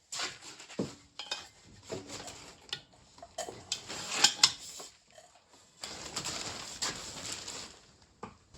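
Hand tools clinking and knocking on metal, with stretches of scraping, as he works at the flywheel of the excavator engine.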